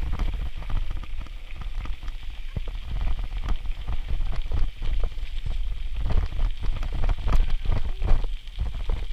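Riding a bicycle: a steady low wind rumble on the microphone, with dense, irregular crackling clicks from the rolling tyres and the bike.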